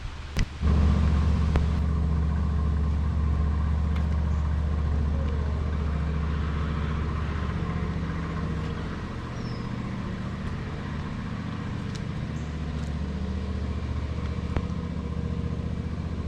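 An engine running steadily at idle, starting suddenly about half a second in after a sharp click.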